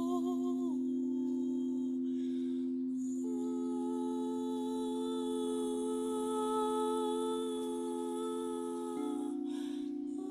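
Long held hummed tones over a steady low drone, the pitch wavering briefly at the start. A short breath comes about two and a half seconds in and another near the end, each followed by a new held note.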